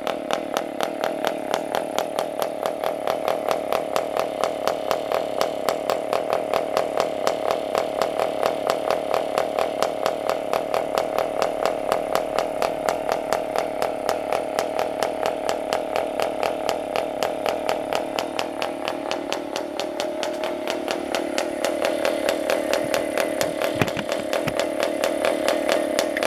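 PAW 40 TBR two-stroke model diesel engine idling with a steady, even pulsing, warm after a long run. A short low knock sounds near the end.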